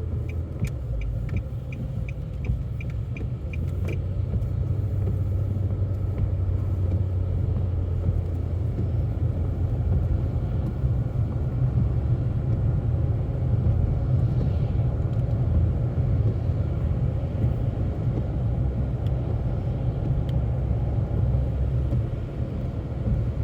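Steady low rumble of a car driving, heard inside the cabin, with tyres on a wet, salted road; it grows a little louder after about four seconds. A quick regular ticking, about three a second, runs through the first four seconds.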